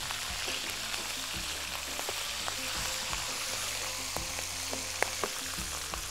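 Chicken pieces frying in hot oil in a pan, a steady sizzle. A few sharp clicks come from the slotted spatula and wooden spoon knocking against the pan as the pieces are turned, the loudest about five seconds in.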